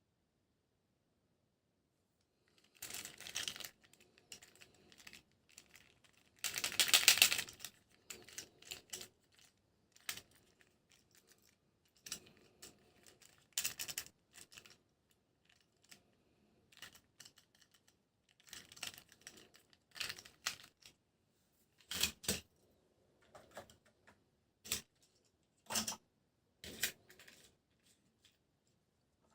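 Toy packaging being handled and opened: scattered clicks and short rustles of cardboard and plastic, with one louder rustle lasting about a second some seven seconds in.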